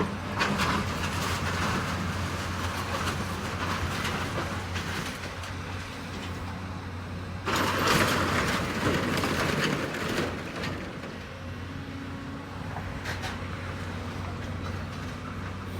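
Building demolition: a heavy demolition machine crunching through floor structure, with scattered cracks and scraping of breaking debris over a steady low machine hum. About seven and a half seconds in, a louder burst of crashing and rumbling debris lasts a few seconds.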